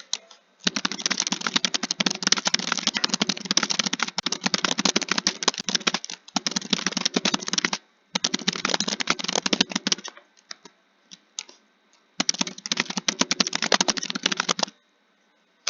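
Fast typing on a computer keyboard: runs of rapid key clicks in four bursts, with short pauses between them and a few scattered keystrokes a little after the middle.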